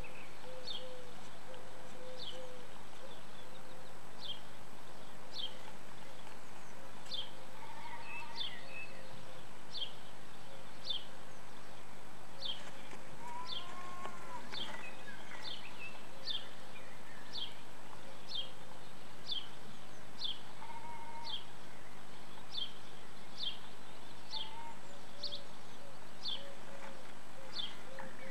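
A bird chirping one short, high, falling note over and over, about once a second, with a few fainter, lower calls now and then.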